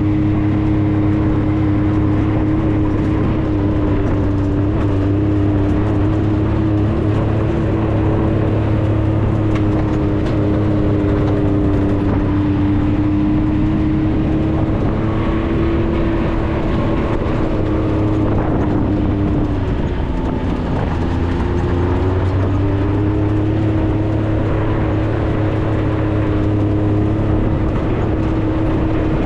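Maverick 4x4's engine running at a steady pitch while driving, with road noise under it; about twenty seconds in the revs dip briefly and then climb back to the same steady pitch.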